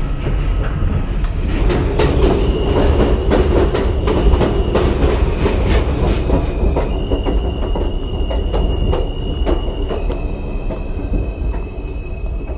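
NYC subway train heard from inside the car, pulling into a station: a continuous rumble with a steady high-pitched wheel squeal that shifts pitch a couple of times, and many clicks from the wheels crossing rail joints.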